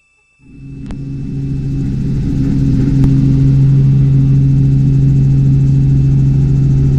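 Robinson R44 Clipper II helicopter's six-cylinder Lycoming IO-540 engine and rotors, a steady low drone as heard inside the cabin. It fades up from near silence about half a second in and levels off after a couple of seconds.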